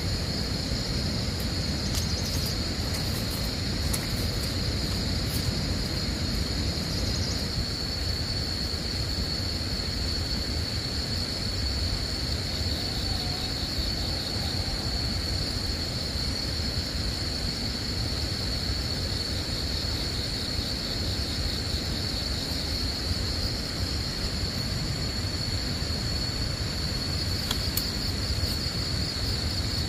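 Outdoor field ambience: a steady high-pitched insect drone, with fainter pulsing insect calls joining it now and then, over a low rumbling noise.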